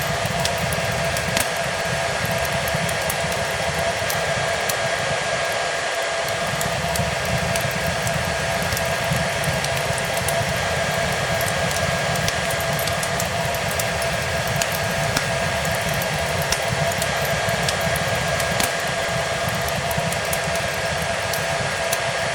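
Hair dryer running steadily: an even rushing blow with a constant motor whine, mixed with the soft scattered crackle of a fireplace.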